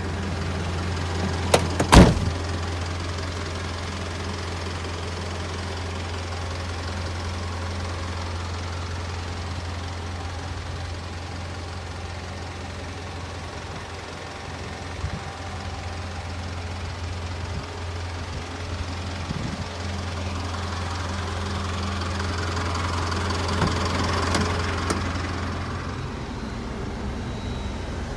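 Isuzu Elf truck engine idling steadily, with one sharp knock about two seconds in and the engine noise swelling a little near the end.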